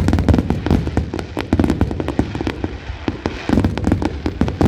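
Fireworks going off in quick succession: a dense string of sharp bangs and crackling pops, easing briefly in the middle and building again near the end.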